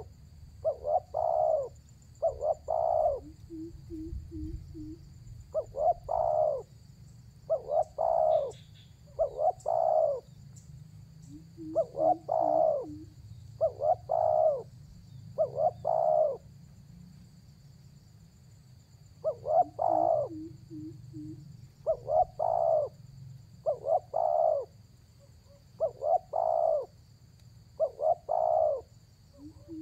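Spotted dove (tekukur) in full song, giving its repeated multi-note coo phrase every one to two seconds, a call used to challenge a rival. A lower, quick run of soft notes comes between some phrases, three times.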